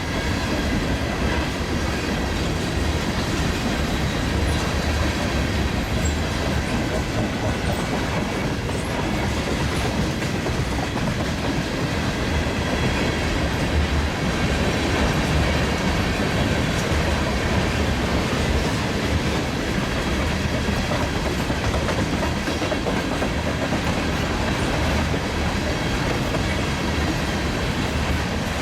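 Empty tank cars of a freight ethanol train rolling steadily over a river bridge, with continuous wheel clatter over the rail joints.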